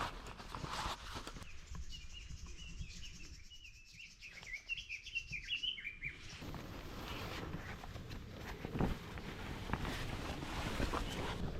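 Small birds chirping in a quick string of calls for a few seconds, then, from about halfway in, rustling and scattered light knocks of gear being handled on the ground.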